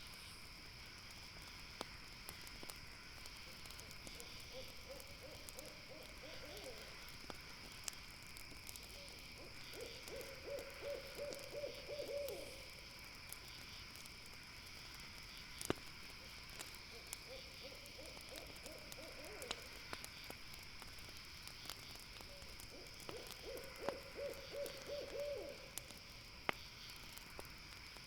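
An owl calling twice, each call a quick run of low hoots lasting several seconds, over a steady high insect trill and occasional sharp pops of a crackling campfire.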